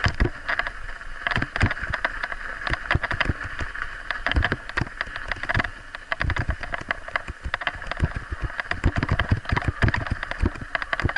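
Scott Spark 50 mountain bike being ridden, heard from a bike-mounted action camera: irregular knocks, rattles and low thumps as it rolls over rough ground, over a steady rushing hiss of wind and tyres.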